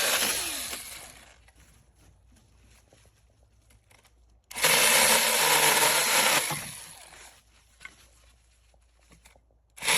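Cordless battery-powered mini chainsaw run in short bursts: the motor and chain wind down about a second in, start abruptly again a few seconds later, run about two seconds and wind down, then start again near the end.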